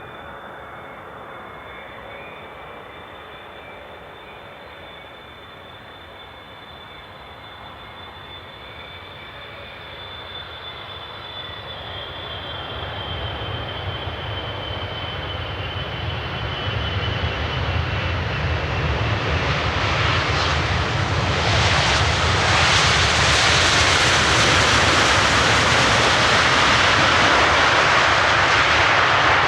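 Jet airliner engines approaching: a faint, high whine that drops slowly in pitch swells over about twenty seconds into a loud, steady roar as the aircraft comes close.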